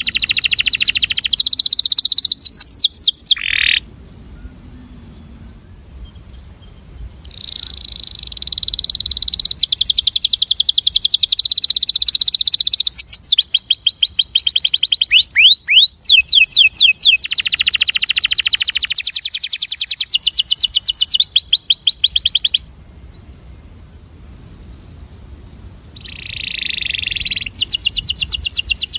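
Male canary singing long phrases of rapid trills, each a fast run of repeated notes that changes speed and pitch from one tour to the next, with two pauses of a few seconds. This is a breeding male's courtship song.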